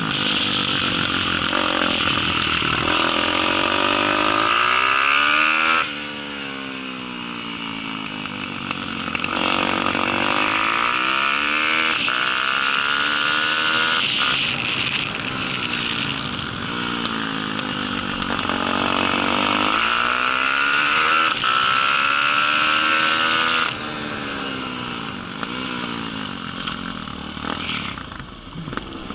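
Four-stroke Daytona 190 pit bike engine racing, heard from a camera mounted on the bike: it revs up in long rising sweeps and falls away when the throttle shuts for corners, with sharp drops about six seconds in and again near the end.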